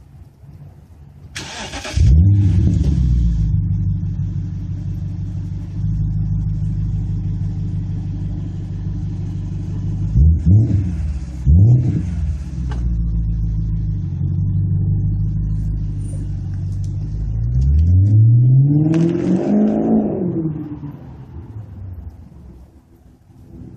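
BMW 550i's 4.8-litre V8 through an RPI GT aftermarket exhaust, starting up with a rev flare and settling into a steady idle. About ten seconds in it is blipped twice in quick succession, and near the end it is revved once more in a longer rise and fall before dropping back.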